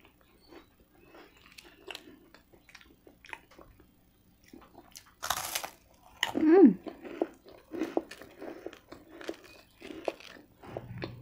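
Close-miked eating: wet mouth clicks and chewing throughout, with a loud crunchy bite into extra-well-done toasted garlic bread about five seconds in, followed by a short falling hum from the eater, then more chewing.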